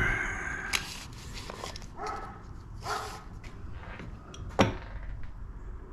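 A dog barking a few short times: near the start, about two seconds in and about three seconds in. Sharp knocks sound about a second in and, loudest, just past four and a half seconds.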